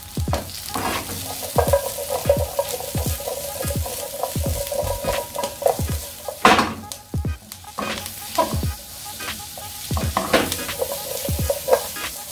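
Asparagus spears sizzling in butter in a non-stick frying pan, with a slotted spatula scraping and stirring them against the pan about once or twice a second.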